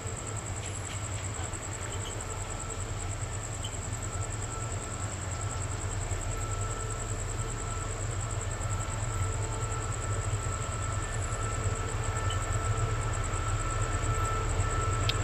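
Passenger train running, a steady low rumble with a thin high whine over it, growing slowly louder.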